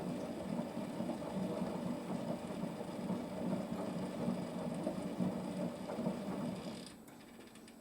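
Front-loading washing machine's drum motor tumbling a hot 95 °C wash load, with a steady running sound. The motor stops about seven seconds in, at the pause between tumbling directions.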